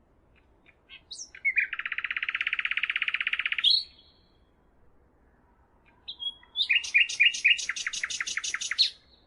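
A songbird singing two phrases: first a fast, even trill lasting about two seconds, then, after a pause of a few seconds, a run of about a dozen quick repeated notes.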